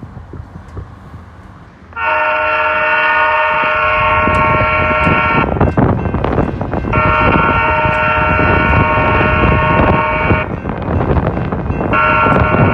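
Railroad grade-crossing horn sounding the crossing signal: two long blasts of a steady multi-note chord, then a shorter third starting near the end. Strong wind buffets the microphone throughout, with a low rumble underneath.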